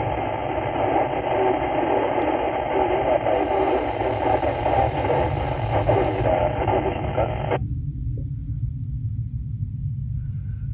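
Amateur radio transceiver's speaker hissing with static while receiving a weak station, barely above the noise on the mobile whip antenna, then cutting off abruptly about seven and a half seconds in. A steady low rumble runs underneath.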